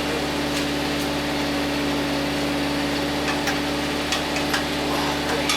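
Steady machine hum with one strong unchanging tone, and a few faint clicks scattered through it.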